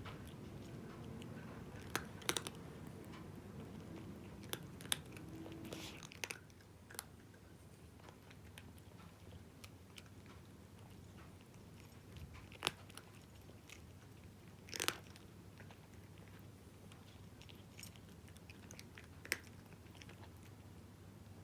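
A cat crunching dry kibble: sharp crunches and clicks, frequent for the first six seconds, then thinning to occasional single bites.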